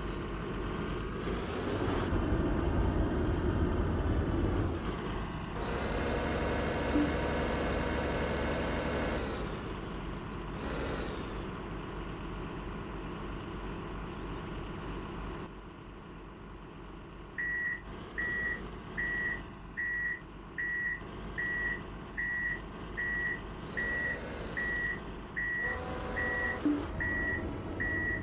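Heavy truck diesel engine running and revving up, then settling lower. From about two-thirds of the way in, a reversing alarm beeps steadily, about four beeps every three seconds, over the engine.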